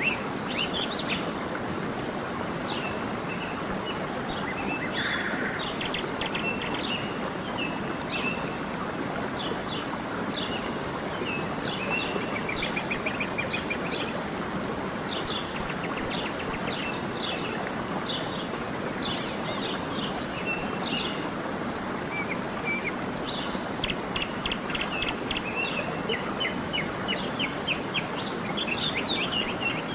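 Several small birds chirping and trilling, with quick repeated high notes, over the steady rush of a flowing stream.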